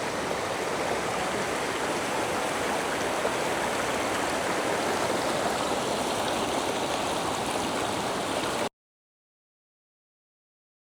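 Waterfall cascades on a woodland river: steady rushing water. The sound cuts off abruptly to complete silence near the end.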